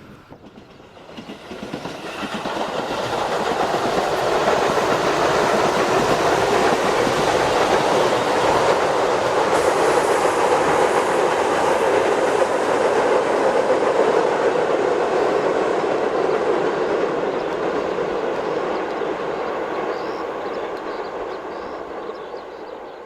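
A Tobu Noda Line electric commuter train passing by on the rails: the sound swells over the first few seconds, stays loud and steady through the middle, then fades away near the end.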